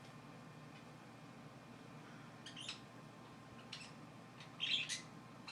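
Pet birds giving a few short, high chirps in the second half, faint, the loudest a little before the end.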